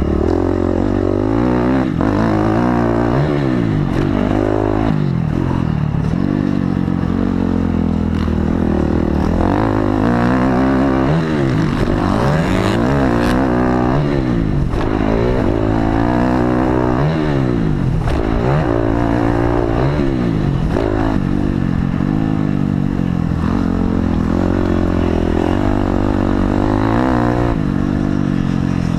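Dirt bike engine revving up and down over and over, its pitch climbing and dropping every second or two over a steady low drone, as when riding a motocross track.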